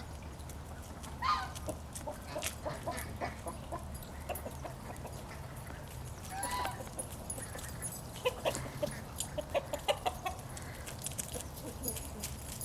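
Chickens clucking: runs of short clucks, with a longer drawn-out call about a second in and another about six and a half seconds in.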